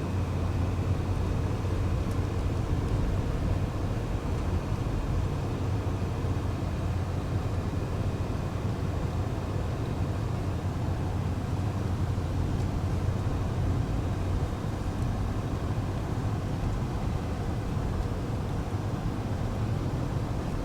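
Steady in-cab drone of a vehicle driving slowly in four-wheel drive: a low engine and drivetrain hum with road noise.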